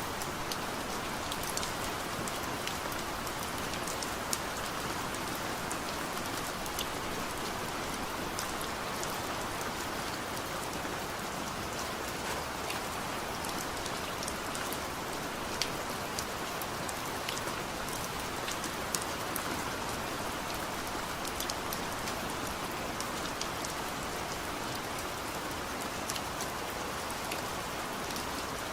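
Steady heavy rain pouring down, with many sharp individual drop ticks spattering over the continuous hiss; no thunder.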